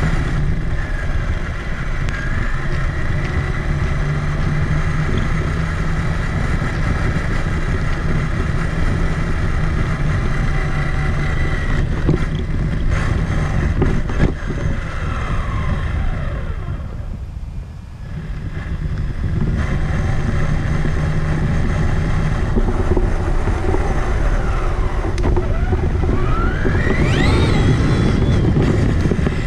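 Traxxas Summit RC truck's electric motor and gear drivetrain whining with rough running noise, heard from a camera mounted on the truck. It slows almost to a stop around the middle, then the whine rises in pitch as it speeds up again near the end.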